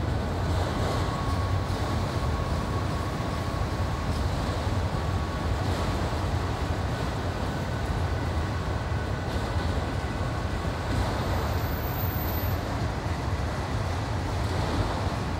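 Freight train of auto rack cars rolling by on the mountain grade: a steady, unbroken rumble with faint steady high tones above it.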